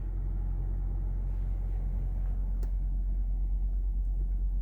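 Semi-truck diesel engine running at low revs, a steady low rumble heard inside the cab, with one faint click partway through.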